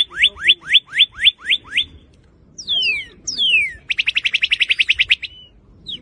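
Northern cardinal singing: a run of about eight quick rising whistles, a short pause, two falling slurred whistles, then a rapid trill lasting about a second, with another falling whistle at the very end.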